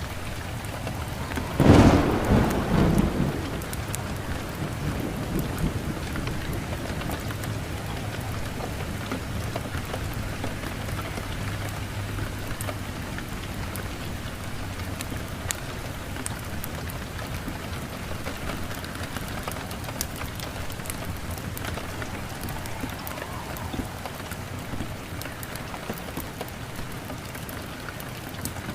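Steady heavy rain falling. A loud thunderclap comes about two seconds in and rumbles on for a second or two. Sparse faint crackles can be heard through the rain.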